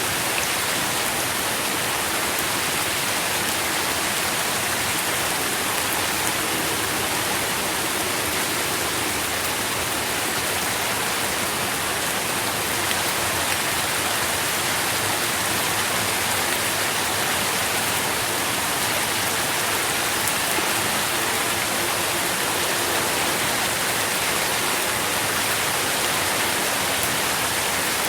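Steady rain falling on leaves and ground, an even hiss of drops with no change in intensity.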